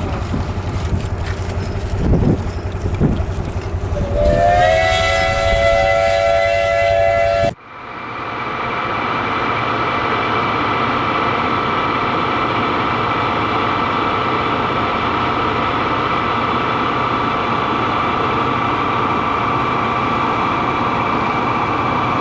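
A steam whistle blows for about three seconds, with a slight rise in pitch as it opens, over a running engine. After an abrupt cut, a steady mechanical din with a constant hum follows, which fits a threshing machine running.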